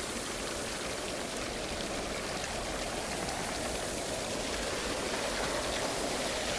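Water running and splashing steadily at a traditional waterwheel, an even rushing with no pauses.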